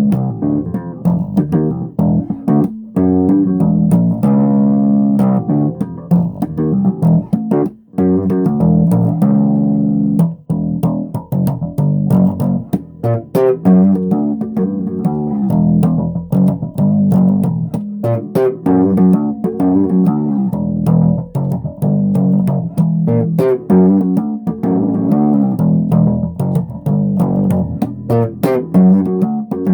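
Bass guitar playing a continuous line of plucked notes, each with a sharp attack.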